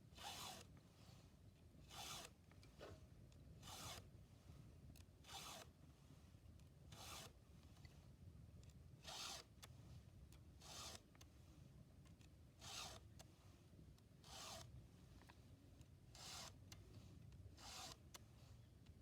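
A file being drawn across a chainsaw chain to sharpen it by hand: short rasping strokes repeating evenly, about one every second and three quarters, eleven in all, over a faint low rumble.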